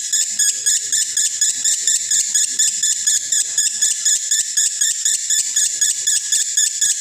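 Male lovebird singing a continuous, rapid, high-pitched chattering song (the long 'konslet' style), its notes repeating evenly several times a second without a break.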